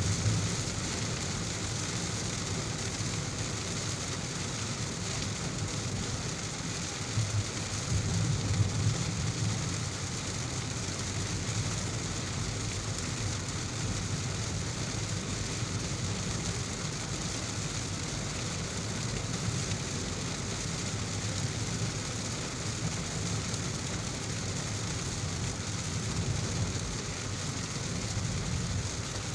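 Steady heavy rain hissing, with a low rumble underneath that swells briefly about seven seconds in.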